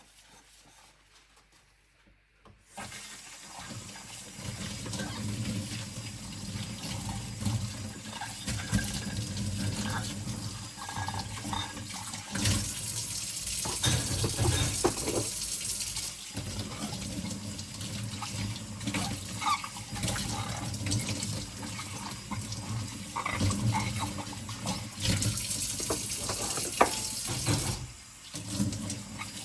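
Kitchen tap running into the sink while ceramic bowls are rinsed under it. The water comes on about three seconds in, with scattered clinks and knocks of the bowls against each other and the sink.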